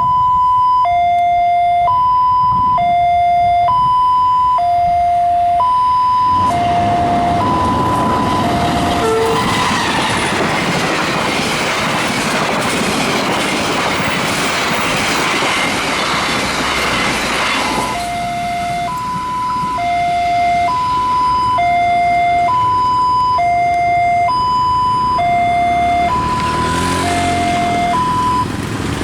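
A railway level-crossing warning signal sounds a repeating two-tone alternation, high then low, about one tone a second. From about six seconds in to about eighteen seconds, a train passes over the crossing. The steady rushing rumble of its wheels on the rails drowns the signal out, and the signal can be heard again after the train has gone.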